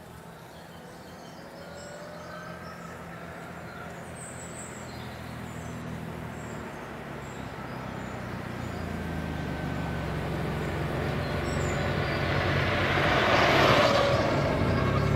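A motor vehicle approaching, its engine growing steadily louder and loudest near the end as it comes close.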